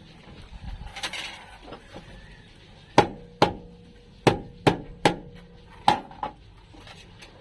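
Hammer blows on sheet metal: seven sharp strikes over about three seconds, some leaving a short metallic ring. A brief hiss comes about a second in.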